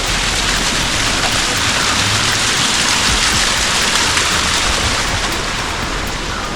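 Water seeping out and trickling down rock beside the steps, a steady splashing hiss that swells a little in the middle.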